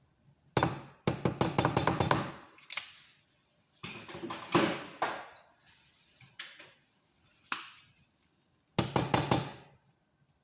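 Kitchenware knocking and clinking in several short bursts of rapid clatter, with pauses between them.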